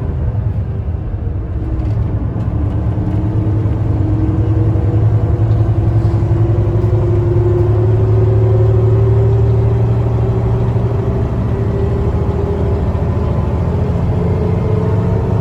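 Mercedes-Benz O307 city bus diesel engine heard from inside the moving bus. A steady low drone runs under an engine note that climbs slowly for several seconds. The note falls away and then climbs again near the end.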